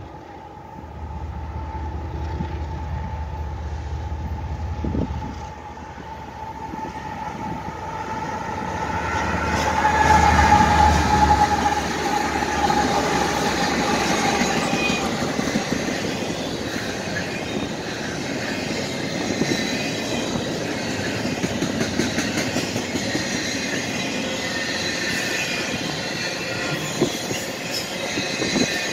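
Union Pacific freight train approaching and passing: the diesel locomotives grow louder to a peak about ten seconds in as they go by, with a steady tone in their sound, then the double-stack container cars roll past with steady wheel noise and thin high wheel squeals. Wind buffets the microphone for the first few seconds.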